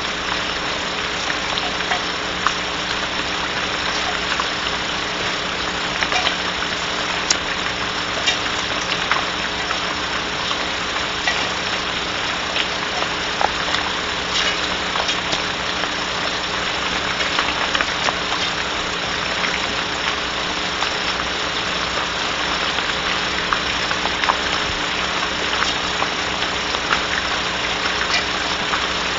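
Steady rain pattering on a barn owl nest box, heard through the nest-cam microphone with many small ticks of drops, over a steady electrical hum.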